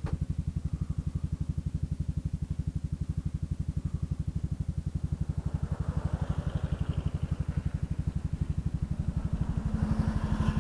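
Kymco Xciting 400i scooter's single-cylinder engine idling, a steady, even low pulsing that holds its pace throughout.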